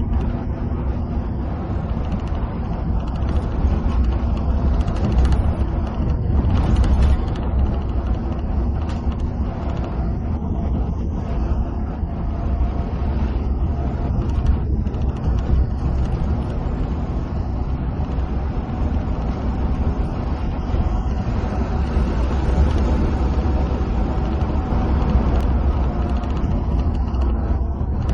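Inside a coach bus cruising on the highway: a steady, deep engine drone mixed with tyre and road noise, with no change in pace.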